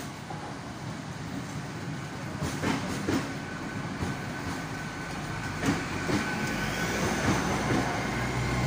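TransPennine Express Class 802 (Nova 1) train coming in and running past along the platform, with wheels knocking over rail joints a few times and a thin high whine that grows near the end.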